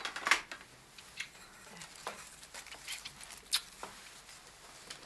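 A few scattered light knocks and clicks, the loudest about a third of a second in.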